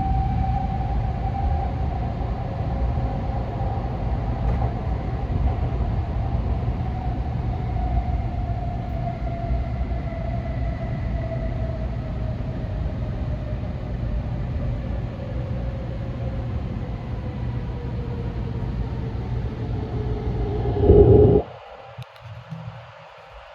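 Shinkansen train heard from inside the cabin running at speed through a tunnel: a loud steady rumble with a faint tone slowly falling in pitch. The rumble cuts off suddenly about 21 seconds in, as the train leaves the tunnel, leaving a much quieter running sound.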